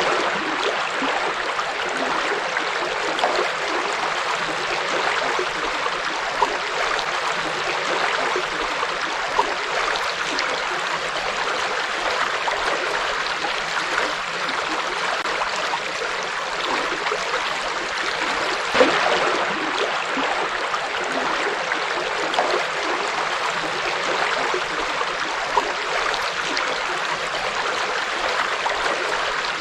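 Forest river flowing in a steady rushing wash, with small splashes and gurgles rising briefly out of it every few seconds.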